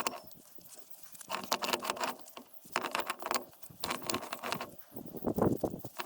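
Four bouts of scratchy rubbing and scrubbing, about one a second, the last the loudest: cleaning out the front wheel hub where the bearings seat, before new bearings go in.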